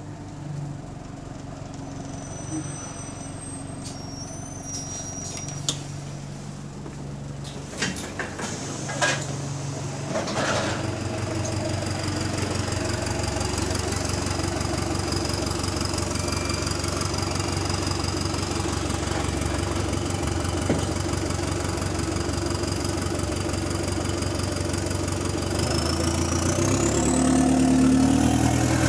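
Bus engine running: lower and uneven with a few sharp knocks at first, then louder and steadier from about ten seconds in, with a high whine rising near the end. This is the bus that has an exhaust leak.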